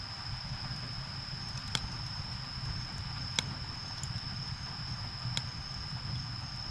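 Wood fire burning with a low steady rumble, and three sharp crackling pops from the burning wood, spaced about a second and a half to two seconds apart. A steady high-pitched whine runs underneath throughout.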